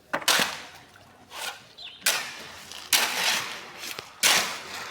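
Shovels striking and scraping through concrete mix during hand casting. A sharp scrape or slap comes roughly once a second, each trailing off in a short hiss.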